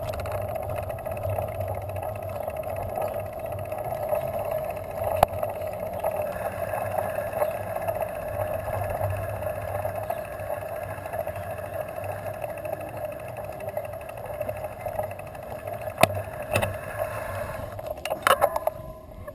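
Steady hum of a bicycle ridden along a street, with a few sharp knocks, several of them near the end.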